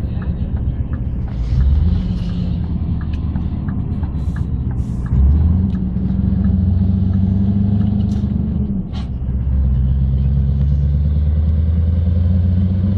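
Scania R580's 16-litre V8 diesel engine running as the truck drives, a low steady drone. Its note steps up in pitch and loudness about a second and a half in and again about five seconds in, and dips briefly near nine seconds.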